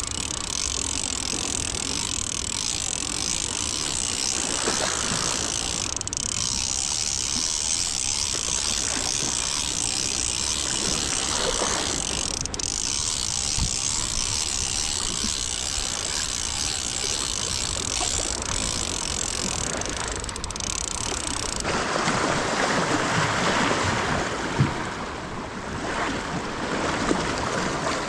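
Surf washing over a rocky shoreline, a steady rushing noise. About three quarters of the way through it turns abruptly lower and fuller.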